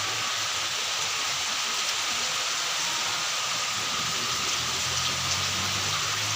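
Steady rain falling and pattering on surfaces, an even hiss throughout. A low hum joins about four seconds in.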